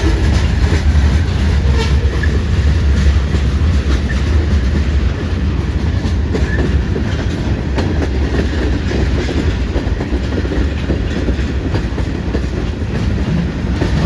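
Freight train rolling past at close range: a steady low rumble with wheels clacking over the rail joints.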